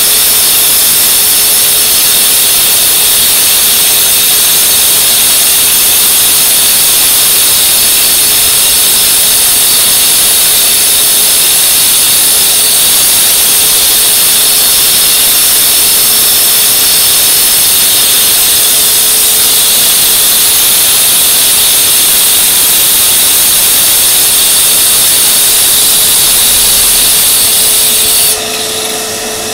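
Power saw with a Spectrum blade cutting into a driveway, a loud steady high-pitched running noise, with a dust vacuum running alongside. About a second before the end the saw stops, leaving the vacuum running on its own.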